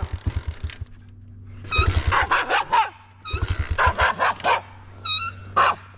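Dog barking in two rapid bursts of about a second each, then a short high yip near the end, over a low steady hum.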